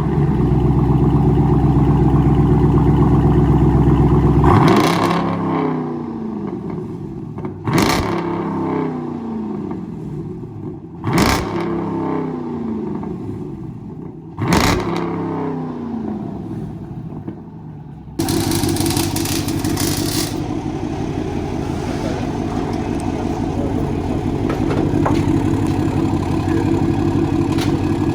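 Dodge Durango SRT 392's 6.4-litre HEMI V8 exhaling through an exhaust with the mid mufflers deleted: running at a high idle, then revved four times, each rev rising sharply and falling back to idle. About 18 seconds in it settles into a steady, louder run.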